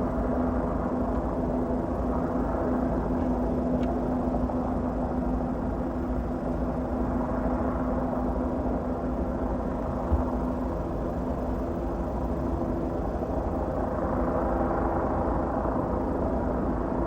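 A steady engine drone with a constant hum, easing a little midway and strengthening again near the end.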